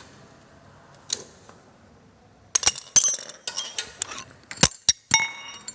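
Metal tools and parts clinking and knocking during motorcycle rear shock work: a single click about a second in, then a clatter of sharp metallic strikes from halfway through, the last few ringing briefly.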